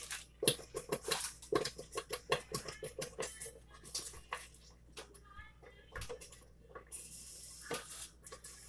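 Quick light taps and rustles as shredded cheese is tipped into the buffalo chicken dip in a crock pot, thinning out after about four seconds, with a short hiss near the end.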